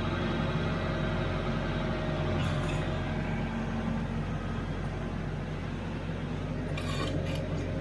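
TYM T574 compact tractor's diesel engine running steadily, with a few short clicks about two and a half seconds in and near the end.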